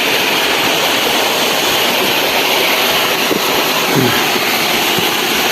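Steady rushing of a waterfall, loud and even.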